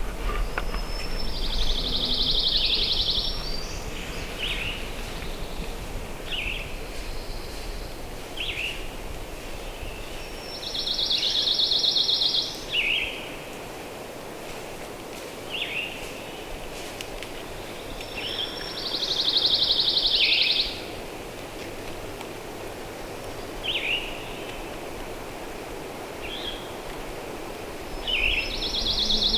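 A songbird's rapid, dry trill, about two seconds long, repeated four times at intervals of about eight or nine seconds, with short chirps from other birds in between over a low background hiss.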